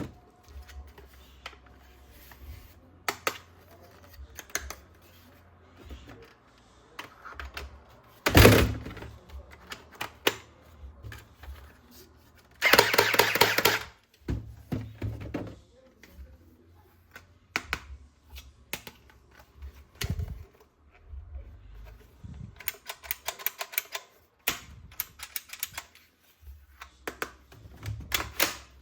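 Hard plastic toy weapon parts being handled, with scattered clicks, knocks and rattles. There is a sharp thump about a third of the way in, and a louder noisy burst about a second long near the middle.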